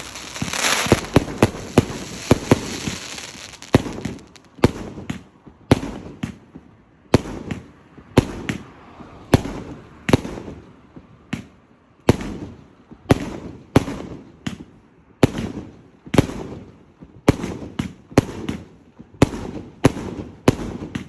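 Fireworks going off: a dense crackling in the first few seconds, then a steady run of sharp bangs, about one or two a second, each trailing off briefly.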